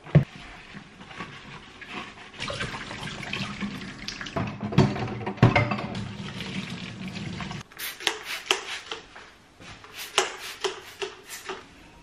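Tap water running into a sink for about five seconds with small knocks mixed in, cut off abruptly, followed by a string of sharp clinks and knocks.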